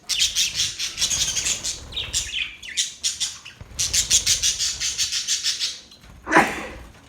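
Budgerigars chattering and warbling in fast, dense runs of high chirps, with a short break near the middle. About six seconds in comes one loud sound that slides sharply down in pitch.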